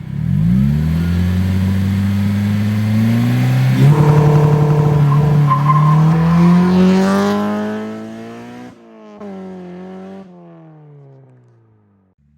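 Swapped Honda K20 four-cylinder engine in a Honda Civic EK accelerating hard, its pitch climbing steadily for about eight seconds. It then drops off abruptly as the throttle closes, falls in pitch and fades away.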